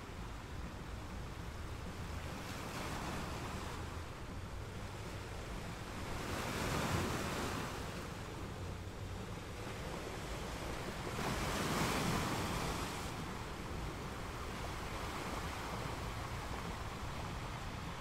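Gentle ocean waves washing in a steady hiss, with two larger waves swelling up and falling away, the first about a third of the way through and the second about two-thirds through.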